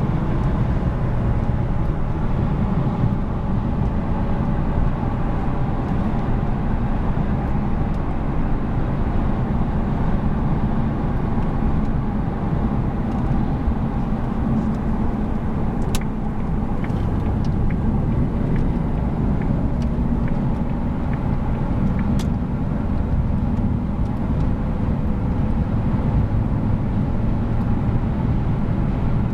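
1997 Jaguar XK8's V8 engine running steadily with tyre and road noise while the car is driven at a fairly constant pace. Two short sharp clicks come about halfway through and again some six seconds later.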